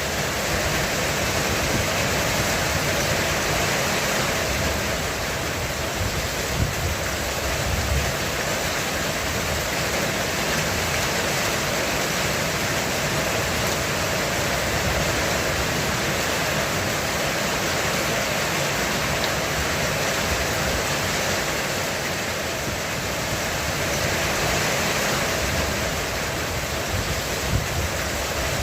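Heavy rain falling steadily on a roof, a dense, even hiss of drops.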